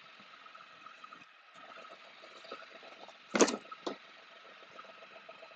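Can-Am Spyder RT's Rotax 1330 three-cylinder engine idling faintly and steadily, warming the oil before an oil change. About three and a half seconds in, a brief rustle is followed by a click, as a package is handled.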